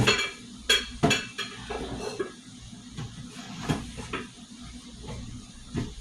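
Dishes and cutlery clinking and knocking as they are handled, in a string of separate knocks, most of them in the first second and a half and a few more later on.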